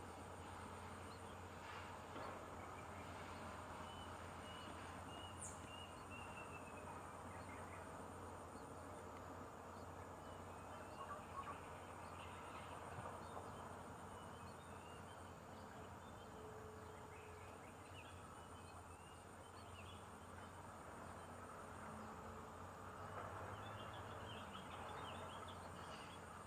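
Faint outdoor background: a steady high insect buzz, scattered short bird chirps, and a low steady hum.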